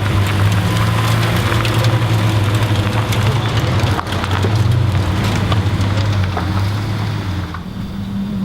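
A car engine running steadily at low revs under a dense crackling. Near the end the low engine note drops away and a rising engine tone begins.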